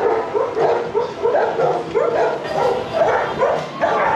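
Many shelter dogs barking and yipping at once, a dense chorus of overlapping barks with no pause.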